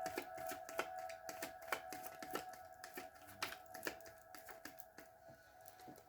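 Tarot cards being shuffled by hand: a quick, irregular run of light card clicks and flicks, thinning out near the end.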